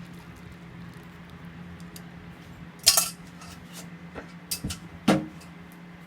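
Kitchen utensils clinking against dishes: a few sharp knocks, the loudest about three seconds in and another just after five, over a steady low hum.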